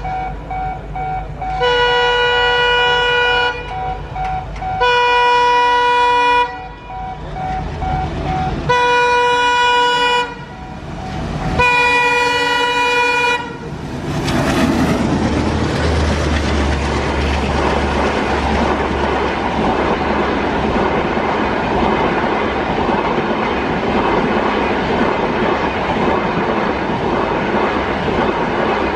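Indian Railways express train locomotive sounding its horn in four separate steady blasts, each a second and a half to two seconds long, then the train running past with a continuous rush of wheels clattering over the rail joints.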